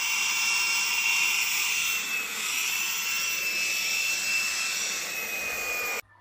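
Vax Blade 4 cordless stick vacuum running: a steady, high-pitched motor whine over a loud rush of air, the whine sinking slightly in pitch. It cuts off abruptly near the end.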